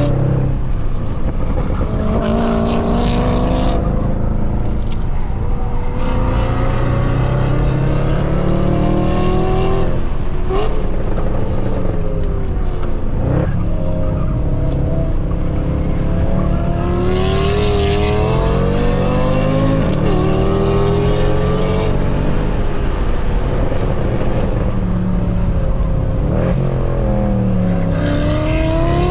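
Mercedes C63 AMG's 6.2-litre V8, secondary cats and resonators deleted, being driven hard on a race track. The engine note climbs through the revs, drops sharply and climbs again, over and over.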